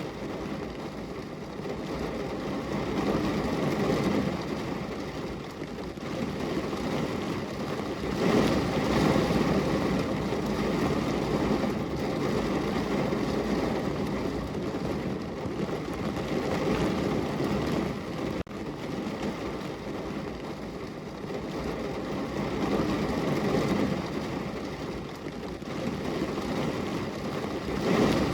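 Heavy rain falling hard, a dense steady noise heaviest at the low end. It swells and eases in waves, loudest about eight to ten seconds in and again at the very end.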